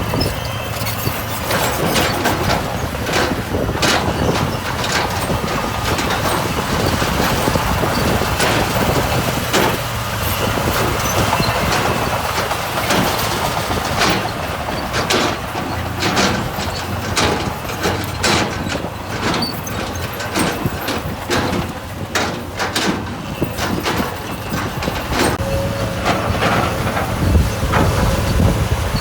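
Heavy diesel earthmoving machinery working on gravel and stone: the engine runs steadily under many sharp clanks and scrapes.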